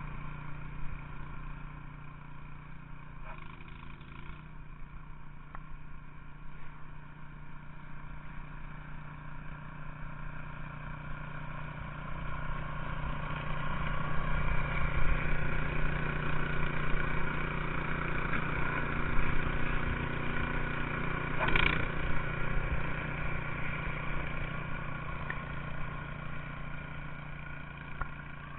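A vehicle's engine running steadily, growing louder through the middle stretch and easing off again, with one short sharp sound about three quarters of the way through.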